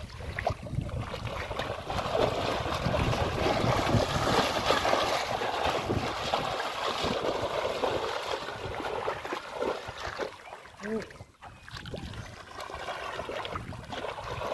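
Muddy water sloshing and splashing as hands and legs move through shallow water, with a short lull about eleven seconds in.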